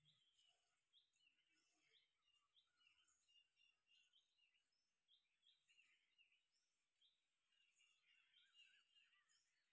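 Near silence, with faint, frequent chirps of small birds.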